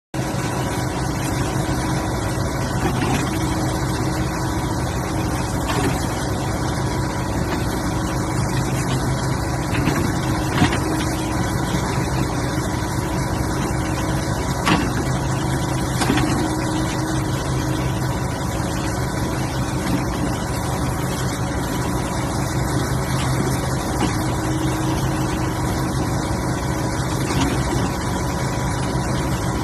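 Excavator engine running steadily, with a few sharp knocks from the machine about ten, fifteen and sixteen seconds in.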